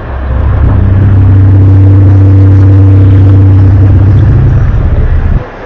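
A loud, steady, low droning hum with a few higher overtones, the kind of unexplained drone recorded as a 'strange sound' in the sky. It holds for about five seconds, cuts out briefly near the end and comes back.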